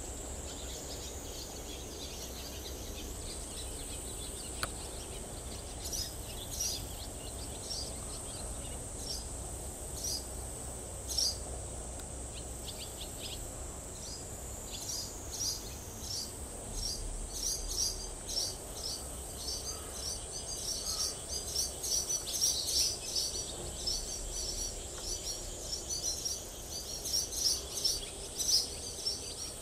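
A small bird chirping in short, quick, high notes, scattered at first and coming thick and fast through the second half, over a steady high-pitched whine and a low background rumble.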